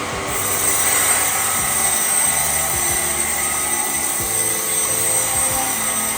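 A machine running steadily, with a constant high whine that comes in just after the start.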